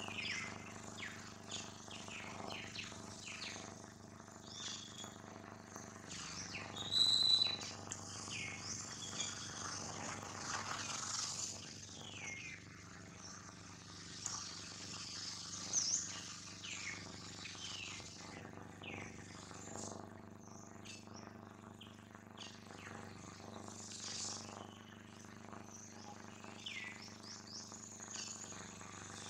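Wild birds chirping throughout: many short, quick, falling high chirps, with one louder, higher call about seven seconds in and another near sixteen seconds.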